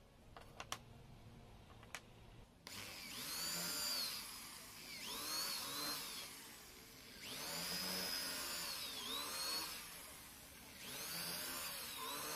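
A few light clicks, then a small electric power tool's motor run in four bursts, its whine rising and falling as the speed changes.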